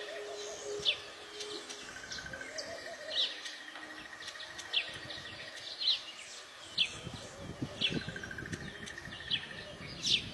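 Small birds chirping, with short sharp chirps about once a second over a faint steady buzzing trill.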